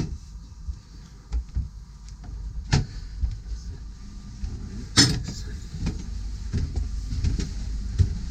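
Knocks and bumps over a low rumble that builds, as people move from a cabin onto a boat's staircase. There are two sharp knocks, the louder about five seconds in.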